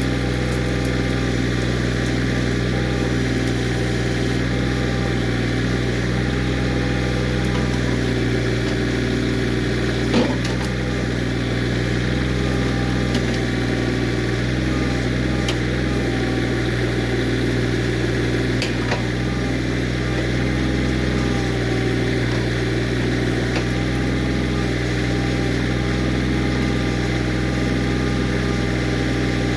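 Kioti CK20S compact tractor's diesel engine running steadily at a constant speed. A brief sharp knock is heard about a third of the way in.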